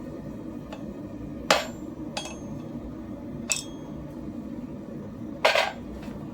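Hammer striking metal in separate, unhurried blows about two seconds apart, three loud strikes with a brief metallic ring and lighter taps between them, over a steady low rumble.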